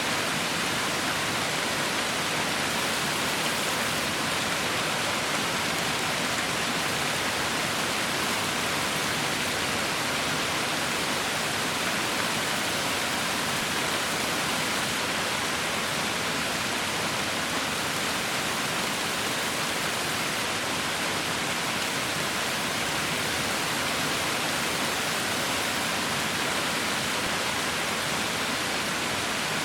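Heavy rain falling steadily, a continuous even hiss with no distinct drops or thunder standing out.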